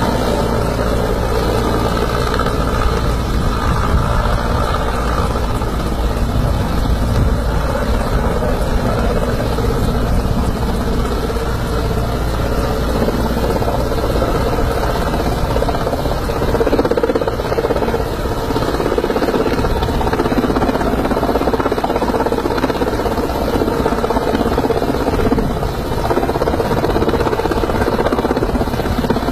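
Heavy rain with a steady, loud rush and a low rumble, typical of wind buffeting the microphone.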